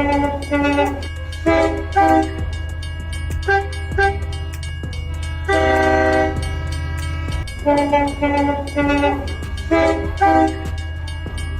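Toy train's electronic horn sounding a series of short toots, mostly in pairs, with one longer blast about six seconds in, over a steady low motor hum and fast clicking.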